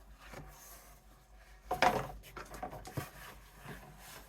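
Plastic craft pieces being handled and fitted together, with a brief clatter about two seconds in and lighter knocks and rustling after it.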